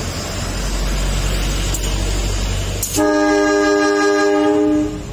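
Diesel locomotive running with a steady low rumble, then about three seconds in a long horn blast of about two seconds, several tones sounding at once, that cuts off sharply.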